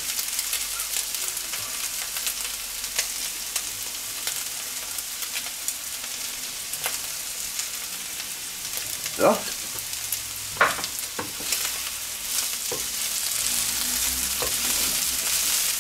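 Diced potatoes, bacon and onions sizzling and crackling in a frying pan, with a wooden spatula stirring through them near the end.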